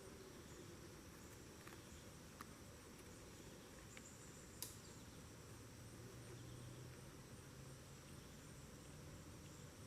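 Faint, steady, high-pitched chorus of summer insects trilling, with a few soft clicks and one sharper click near the middle.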